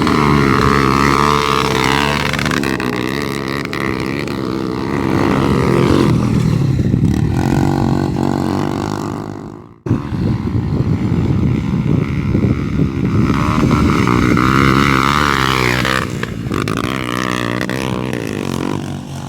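Honda Bros 150 motorcycle's single-cylinder four-stroke engine being ridden on a motocross track, its pitch rising and falling as the throttle is opened and closed. The sound cuts out abruptly about ten seconds in and resumes at once.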